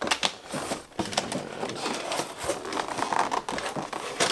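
Box packaging being handled: crinkling and rustling with many short clicks and knocks as a packed piece is worked loose from the box.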